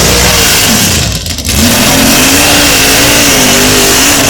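Loud competition engine at full throttle. It revs up, drops briefly about a second in, then climbs back and holds at high revs with a wavering pitch.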